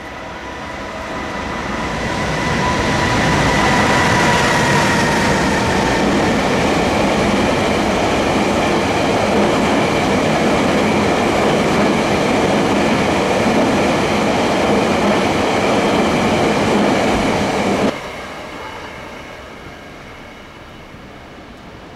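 A locomotive-hauled train of EF210 electric locomotive and unpowered Tobu N100 Spacia X cars passing at speed. The rumble of wheels on rail builds over the first few seconds, with a faint high whine that drops slightly in pitch about four seconds in. The loud rumble cuts off suddenly near the end, leaving a fainter, fading rumble.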